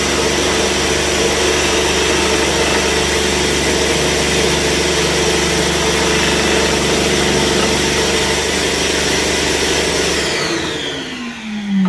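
Scroll saw running steadily as its blade cuts through a slab of hard fudge. About ten seconds in it is switched off and the motor winds down, its pitch falling.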